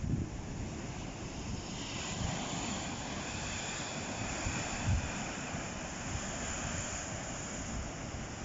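Sea waves breaking and washing up the shore, the wash of surf building about two seconds in, with gusts of wind buffeting the microphone.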